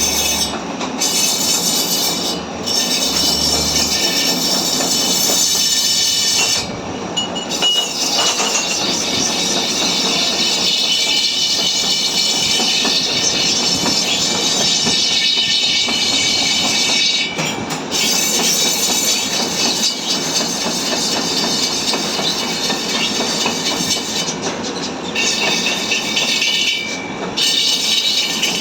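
Machine work on a motorcycle's alloy front rim: a loud, continuous metallic screech with high whistling tones, breaking off briefly a few times.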